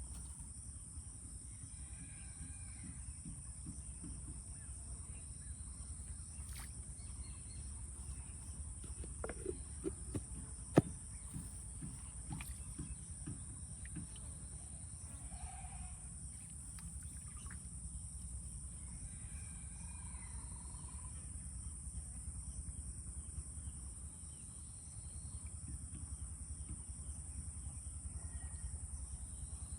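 Outdoor insect chorus: a steady high-pitched drone over a low rumble, with a few sharp clicks around the middle and faint short bird-like calls now and then.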